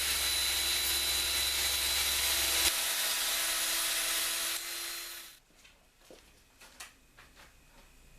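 A small power tool running with a steady hiss and whine, stopping about five seconds in, followed by a few light knocks and clicks.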